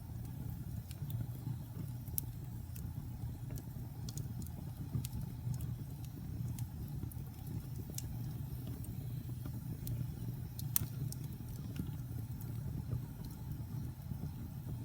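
Wood fire burning in a fireplace: a steady low rumble of flames with scattered sharp crackles and pops from the burning wood, a few of them louder than the rest.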